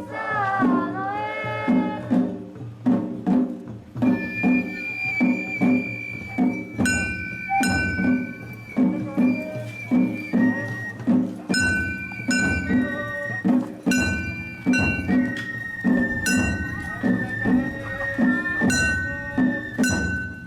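Japanese festival float music (hayashi): taiko drums beating a steady, driving rhythm with sharp metallic strikes, a sliding call in the first two seconds, and a bamboo flute holding long high notes from about four seconds in.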